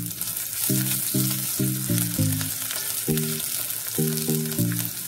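Chopped ginger and sliced garlic sizzling in hot coconut oil in a pot as they are stirred. A light background tune of short repeating notes plays along.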